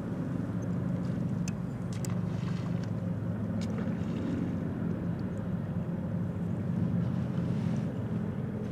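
A motor engine running steadily, a low even drone, with a few faint light clicks over it.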